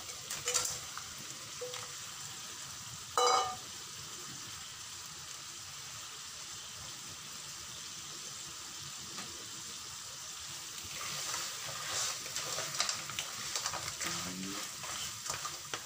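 Raw crab pieces sizzling in hot oil and chili paste in a wok, with a brief ringing clank about three seconds in. From about eleven seconds in, a wooden spatula stirs and scrapes the crabs around the wok.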